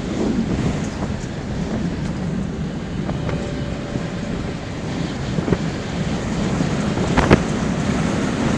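Storm wind buffeting the microphone: a steady rushing noise with a few sharp knocks, the loudest about seven seconds in.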